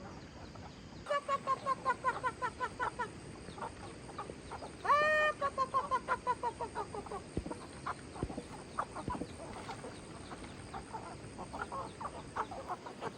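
Chickens clucking: a quick run of clucks, then about five seconds in a louder drawn-out call that runs into another fast series of clucks, followed by scattered light clicks.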